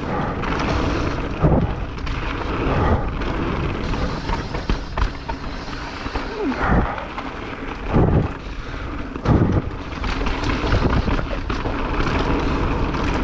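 Mountain bike being ridden over trail: wind buffeting the camera microphone over a steady rumble of tyres, with several sharp knocks from the bike hitting bumps.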